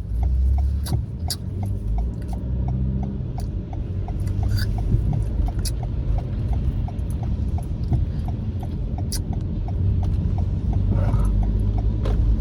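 Car turn-signal indicator ticking steadily, about three ticks a second, over the low rumble of the car on the road, with a few sharp clicks now and then.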